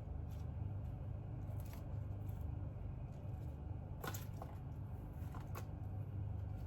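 A steady low hum with a few soft clicks and rustles of objects being handled, three of them plainer, the clearest about four seconds in.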